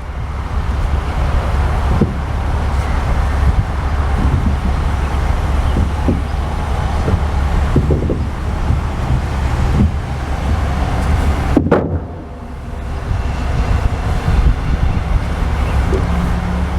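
Steady low vehicle engine and traffic noise, with several knocks, the loudest about twelve seconds in, as a wooden blocking piece on a flatbed load is shifted and dropped back into place.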